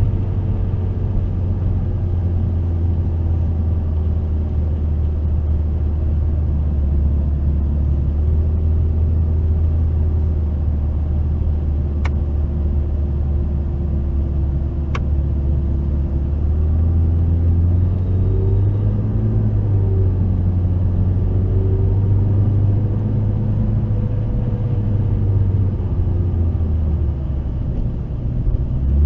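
McLaren 650S's twin-turbo V8 running on track, its note holding fairly steady and then climbing and dipping with speed in the second half. Two sharp clicks sound about twelve and fifteen seconds in.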